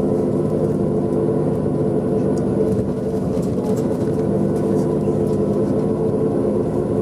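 Engine of a tour vehicle running steadily, heard from inside the vehicle as a constant hum with a low rumble.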